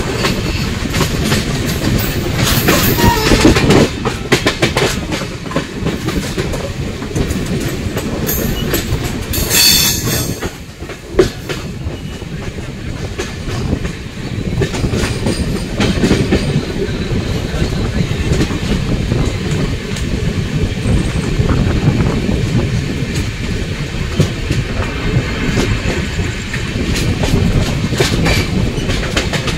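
Coalfield Superfast Express running at speed, heard from on board: a steady rumble with the wheels clicking over the rail joints. A louder hissing rush comes about three seconds in and again about nine to ten seconds in.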